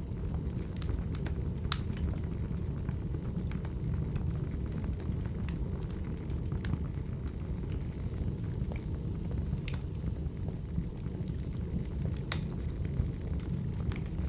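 Firewood burning: a steady low rumble from the fire with sharp crackles and pops scattered through it, the loudest about two seconds in, near ten seconds and near twelve seconds.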